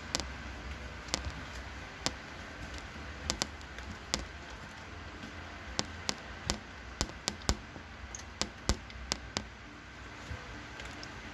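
About twenty irregular sharp taps and clicks, bunched more thickly a little past the middle, over a steady low background noise.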